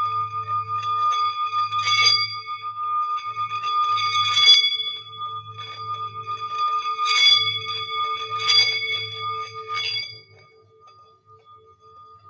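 Singing bowl ringing with a steady, sustained tone, punctuated by five bright metallic strikes of bells or chimes. A low hum beneath stops about ten seconds in, and the bowl's tone rings on quietly.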